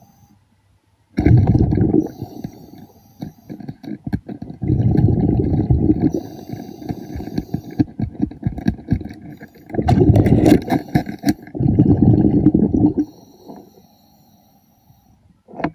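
Underwater, a diver's exhaled air bubbling out in several rumbling bursts of one to three seconds each, with scattered clicks and scrapes in between.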